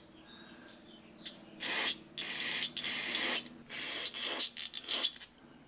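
Aerosol carburetor cleaner sprayed in four short hissing bursts into a small-engine carburetor's jet and fuel passages, flushing out old gummed fuel.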